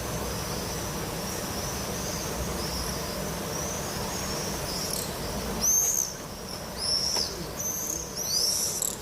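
Small birds calling outdoors: a steady high warbling trill, then from about halfway through a run of loud, short, arching chirps repeated every second or so.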